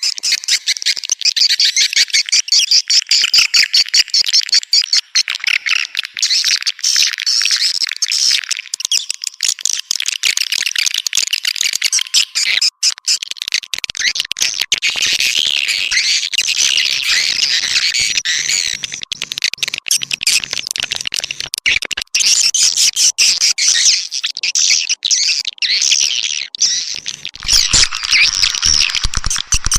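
Swiftlets twittering in a dense chorus, rapid high chirps overlapping without a break: a swiftlet lure call of the kind played to draw swiftlets to nest.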